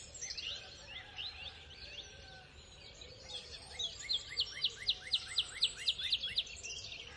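Birds chirping: sharp repeated chirps, with a fast run of about four a second in the second half, over faint steady background noise.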